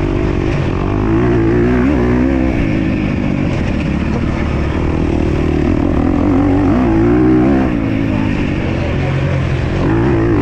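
Motocross dirt bike engine revving hard, its pitch rising and falling repeatedly every second or two over a steady rumble.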